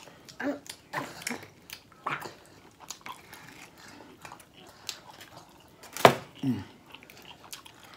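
Close-miked eating sounds: wet chewing, lip smacks and mouth clicks from a man eating a fried egg roll. A sharp click about six seconds in is followed by a short, low, falling hum-like mouth sound.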